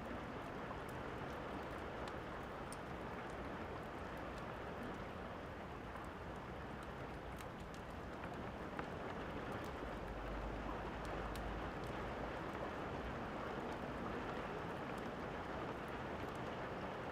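Steady rain, with scattered crackles and pops of a wood fire. A low rumble of distant thunder comes about ten seconds in.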